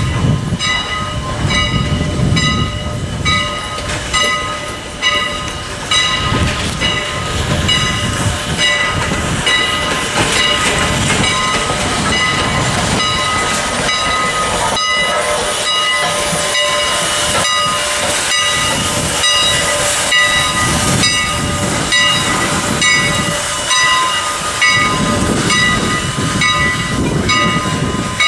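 Steam locomotive at work, with steam hiss and a low, pulsing rumble. Over it a high ringing repeats again and again at a fairly even pace.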